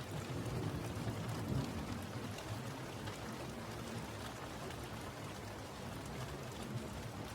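Steady rain falling, a dense even patter with a low rumble underneath, like distant thunder.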